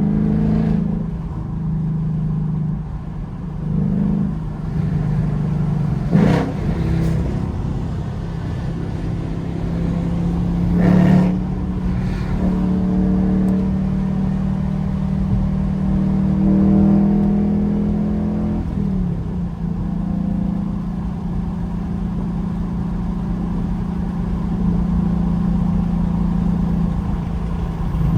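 2021 Ford Mustang GT's 5.0-litre V8 engine and exhaust while driving, its note shifting with throttle. It climbs in pitch as the car accelerates through the middle, then drops back, with a few short knocks along the way.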